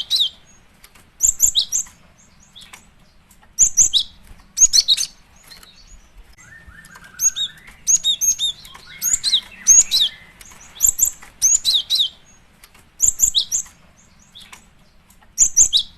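Female cinereous tit (gelatik batu) calling: short, high chirps in quick clusters of two to four, repeated about every second, a female's call to a male.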